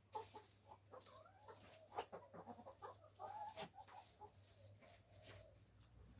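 Backyard hens clucking softly and intermittently, with a few sharp clicks among the calls.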